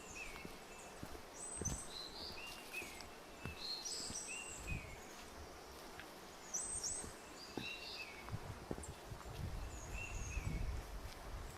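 Footsteps on a forest trail, with birds chirping short repeated notes around them.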